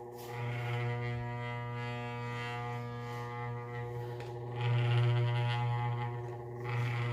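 Pedestal fan's electric motor giving off a steady droning hum with many overtones. This is the unwanted noise the fan is making. The hum swells louder about four and a half seconds in.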